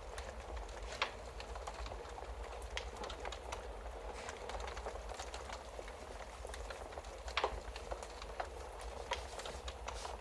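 Wood fire in a fireplace crackling steadily, with scattered sharp pops: the loudest come about a second in and about seven seconds in.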